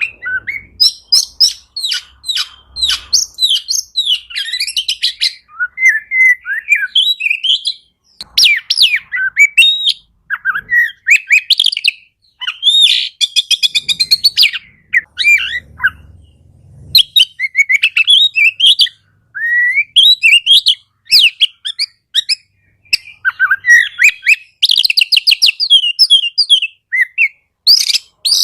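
Oriental magpie-robin (kacer) singing a long, varied song of loud whistles, slurred notes and fast chattering runs, phrase after phrase with short pauses between.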